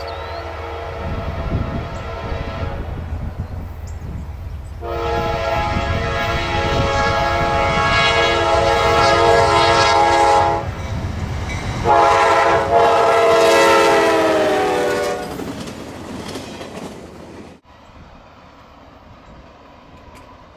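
Diesel locomotive's multi-chime air horn sounding over the rumble of a passing train: a short blast at the start, a long blast, then a shorter one whose pitch drops as the locomotive goes by. The sound cuts off suddenly near the end, leaving a quieter rumble.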